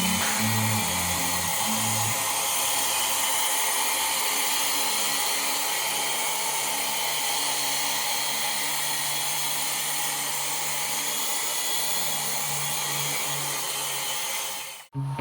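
Small toy RC helicopter's electric motor and rotor running, a steady hissing whir that cuts off suddenly near the end.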